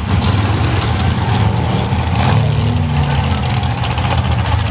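Big truck engines idling loudly, one of them revving up about two seconds in, holding the higher note for a moment, then settling back.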